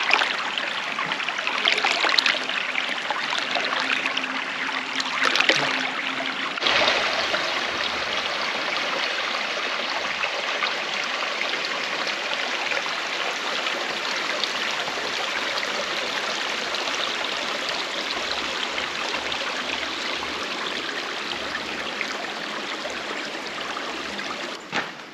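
Creek water rushing over a small waterfall: a steady hiss, whose character changes abruptly about seven seconds in.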